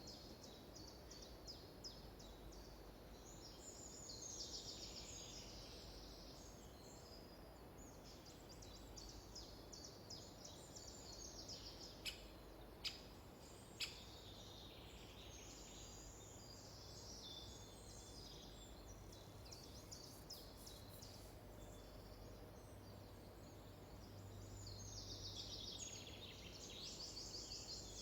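Small songbirds singing in a forest, repeated high, trilling phrases coming and going over a quiet background hum. About halfway through there are three short, sharp clicks.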